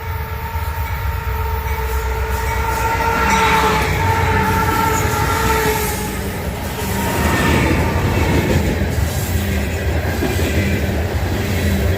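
Diesel freight locomotives hauling a loaded grain train past, with a steady low engine rumble. A horn-like steady tone sounds for about the first half and drops slightly in pitch as it ends. Then the passing locomotives and cars take over with wheel-on-rail noise.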